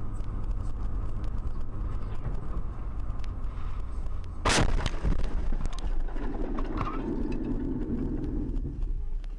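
Steady engine and road rumble of a vehicle, with a single loud bang about four and a half seconds in, a collision impact, followed by a few seconds of rougher noise.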